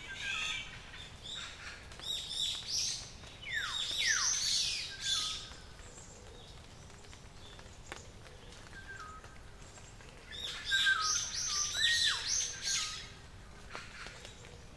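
Songbirds singing in bursts of quick, varied phrases, some with whistles that slide steeply downward, with short pauses between bursts.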